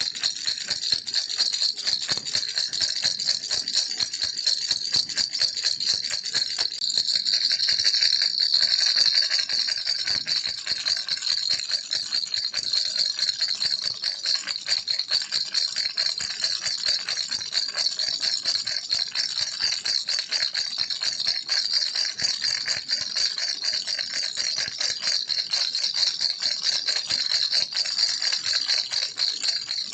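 A baby's toy rattle shaken continuously, a dense fast clatter of small beads or pellets, bright and high, steady throughout with a slightly louder stretch about eight seconds in.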